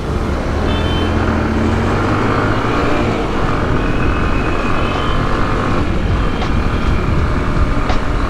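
Heavy road traffic heard from a motorcycle in congestion: engines running steadily, with a few short high tones over the top.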